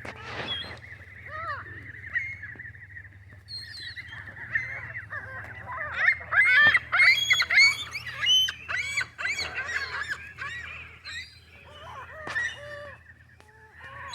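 A flock of Canada geese honking, many birds calling over one another, loudest and densest about six to eight seconds in.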